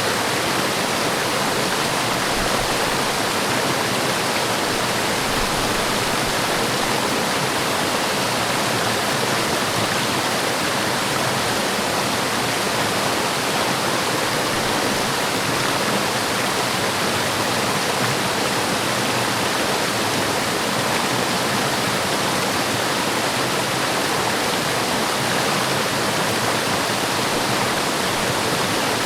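Forest waterfall: a steady, dense rush of falling water.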